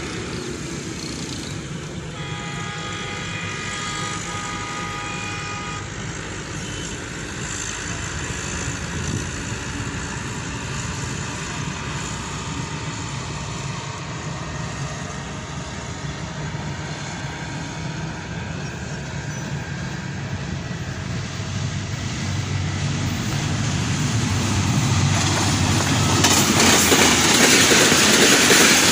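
Diesel-electric locomotive hauling an express passenger train, approaching and passing at speed. A horn sounds for about four seconds a couple of seconds in. The low engine rumble then grows, and the noise of wheels on the rails swells to its loudest near the end as the coaches rush past.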